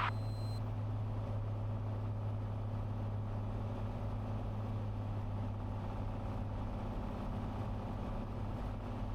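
Cessna 182's six-cylinder piston engine and propeller droning steadily on short final, a low, even hum that does not change.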